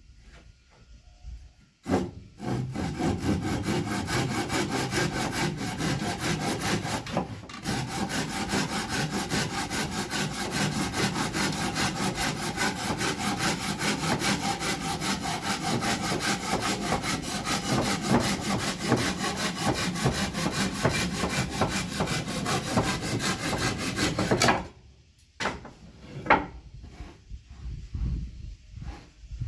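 Wood being sawn in a steady, rapid run of strokes for about twenty seconds, with a brief break about a third of the way through, then stopping. A few separate knocks of wood follow near the end.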